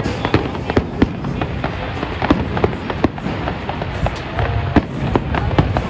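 Fireworks display: many sharp bangs and crackles in quick, irregular succession over a steady low rumble of bursting shells.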